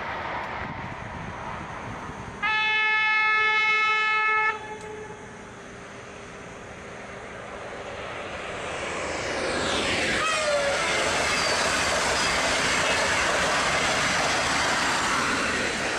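A high-speed train sounds its horn once, a single steady blast of about two seconds. The train then comes up and rushes past, its noise building and sliding down in pitch as it goes by, then staying loud.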